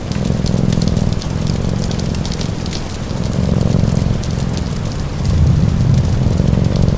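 A layered sleep-ambience mix: a low purr that swells and eases every two to three seconds, a fire crackling with frequent sharp pops, and steady rain hiss underneath.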